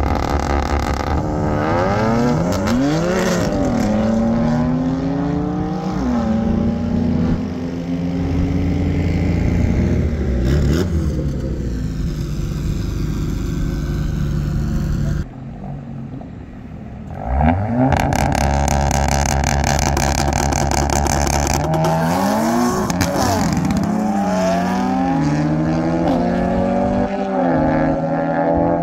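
Performance car engines at full throttle on a drag strip, the pitch climbing hard and dropping back at each upshift, several times over, with a short lull about halfway through.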